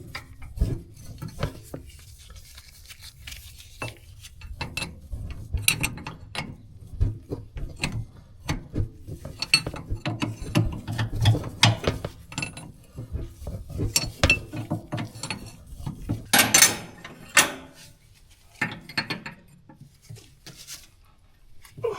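Hand tools working a hydraulic hose fitting onto a skid loader's drive motor: irregular metallic clicks and clinks of a wrench turning and tightening the fitting, with a short rustling, scraping stretch near the end.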